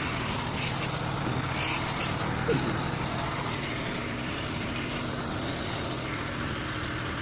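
An engine running steadily, with several short hisses of compressed air in the first three seconds from the air line at the valve while the loader tyre is inflated.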